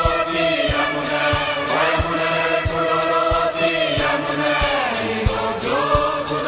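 Background music: a choir singing a chant-like song over a steady drum beat, about three beats every two seconds.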